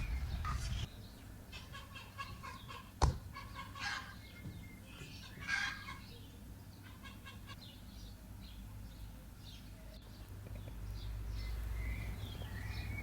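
Chickens clucking in repeated short calls, with a single sharp knock about three seconds in.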